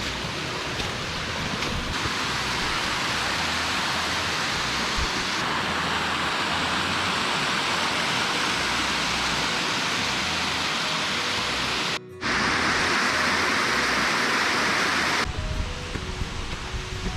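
Waterfall rushing loudly and steadily, its roar shifting in tone at several abrupt cuts, with a brief dropout about twelve seconds in. Soft background music plays underneath.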